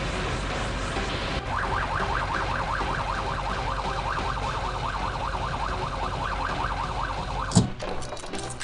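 Fast yelping siren, its pitch rising and falling about five times a second. It starts about a second and a half in and stops with a sudden loud bang near the end.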